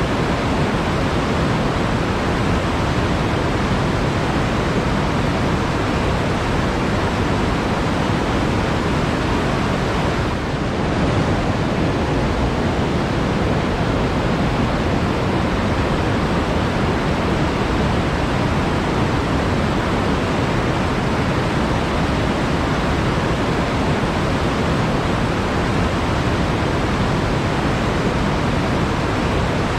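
Flowing water in a forest stream, rushing steadily without a break.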